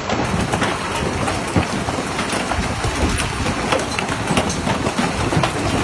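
Large hailstones pelting down in a heavy storm: a dense, irregular clatter of hard impacts over a steady rushing noise.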